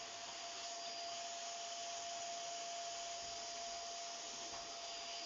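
A small motor running steadily: an even whirring hiss with a steady whine through it.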